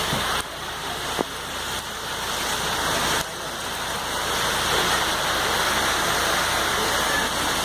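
Heavy rain falling steadily, a dense even hiss of water, with one short sharp tap about a second in.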